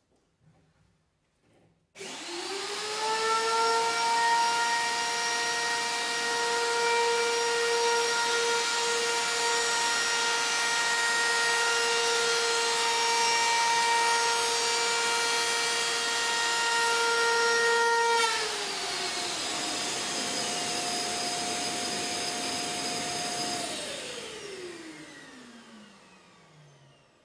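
Kärcher WD 5.600 wet-and-dry vacuum cleaner switched on about two seconds in, its motor spinning up to a steady high whine. About two-thirds of the way through the sound drops a little in pitch and level, and near the end the motor winds down, its whine gliding lower as it fades.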